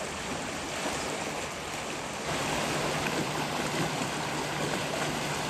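Steady rushing water, growing louder a little over two seconds in.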